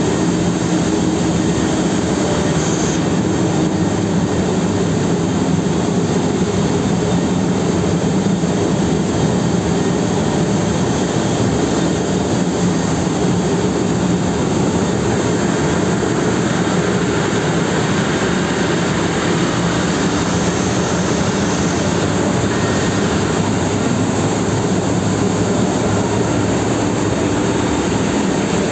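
Ship's engines running in the engine room: a loud, steady drone with a strong low hum.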